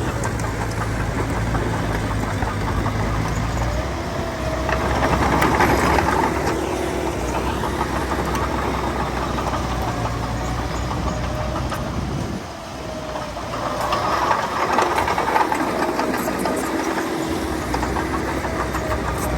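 Diesel engine of heavy earthmoving machinery running and working, growing louder under load twice, about five and about fourteen seconds in, with a faint wavering whine over it.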